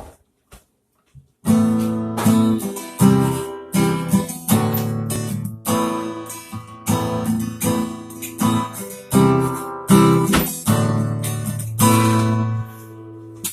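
Acoustic guitar strumming chords as the instrumental intro to a country song, coming in about a second and a half in after near silence and letting a last chord ring out near the end.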